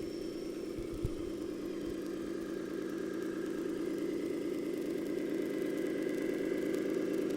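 Scale RC model vehicle's simulated diesel engine sound running steadily at idle, getting slightly louder toward the end, with a single short knock about a second in.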